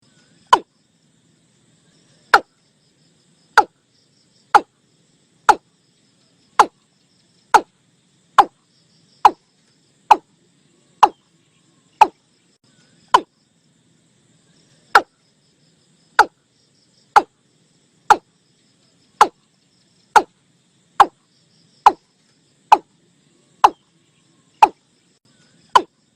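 Recorded male watercock calling: a long run of short, sharp notes about one a second, with a pause of nearly two seconds just past the middle. This is the kind of call trappers play through a speaker to lure watercocks.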